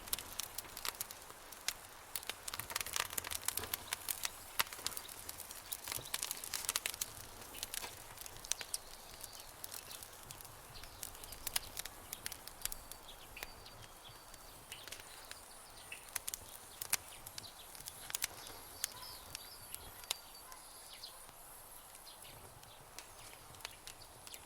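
Campfire crackling: a steady run of sharp pops and snaps over a soft hiss, thickest in the first several seconds and sparser after. Faint high chirps sound in the background in the second half.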